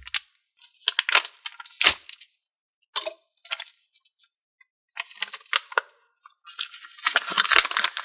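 Hands squishing and stretching a watery slime, giving irregular bursts of wet crackling and popping, with a longer, denser stretch near the end.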